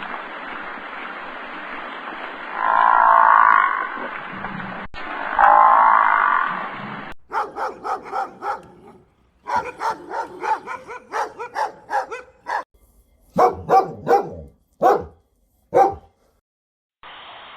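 A frog croaking in two long pulsing bursts, then, after a cut, a small dog yapping rapidly for about five seconds and finishing with four separate louder barks.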